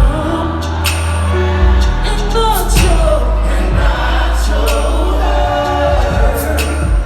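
Live R&B concert music: a vocal group singing harmonies over a band with a heavy steady bass line and regular drum hits.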